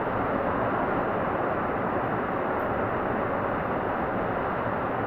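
Heavy rain falling steadily on the barn roof during a storm, a dense, even hiss with no separate hits.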